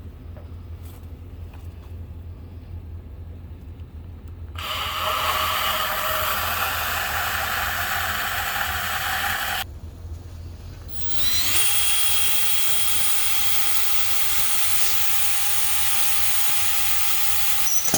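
Power drill boring through the sheet-steel wall of a metal building, in two runs of about five and six seconds with a short pause between, the second with a steady motor whine.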